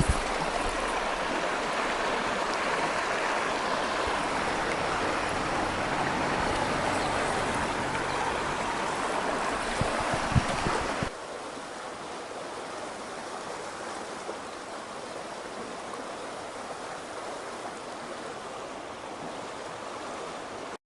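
Rushing water of a mountain stream after rain, a steady rush that drops suddenly to a quieter level about halfway through. A couple of short knocks are heard just before the drop.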